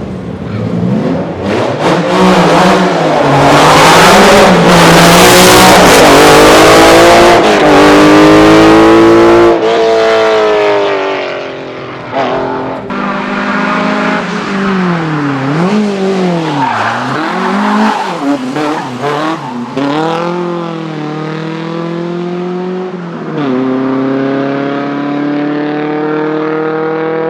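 Race car engine at full throttle passing close by, loudest from about two to nine seconds in. It then carries on up the hill, the revs repeatedly climbing and dropping sharply through gear changes and corners.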